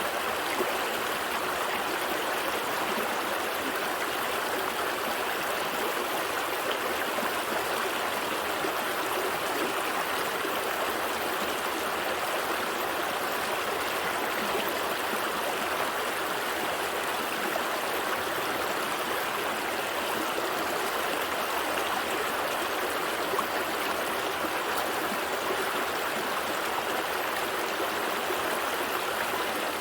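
A gentle stream flowing steadily over rocks, a continuous babble and trickle of running water.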